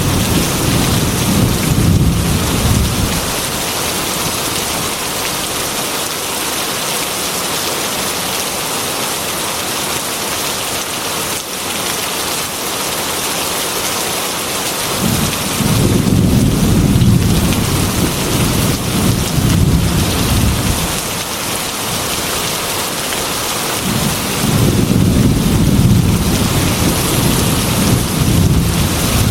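Heavy rain falling steadily on a glass window, with three rolls of thunder: one dying away in the first few seconds, a longer one from about halfway, and another near the end.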